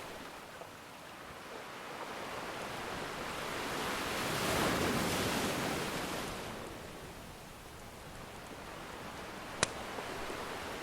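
Ocean surf: one wave washes in, swelling to a peak about halfway through and then receding. Near the end there is a single sharp pop from a crackling wood fire.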